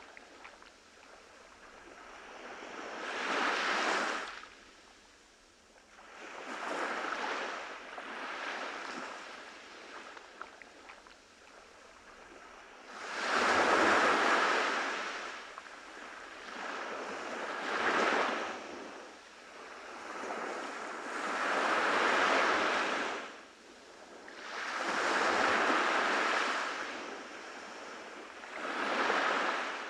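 Waves breaking on a beach: surges of surf noise that swell and fade every three to four seconds, with bigger waves from about halfway through.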